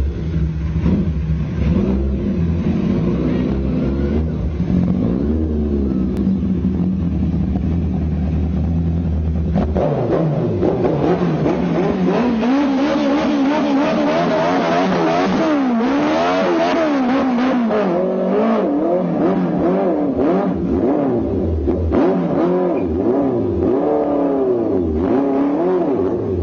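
Car engine running through a very large exhaust: a deep steady idle, then from about ten seconds in it is revved up and down again and again.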